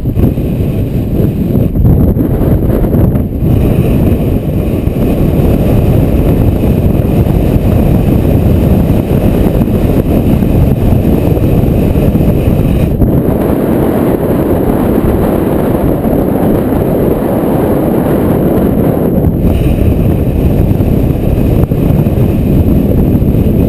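Strong dust-storm wind buffeting the microphone: a loud, steady, low rumble with no let-up.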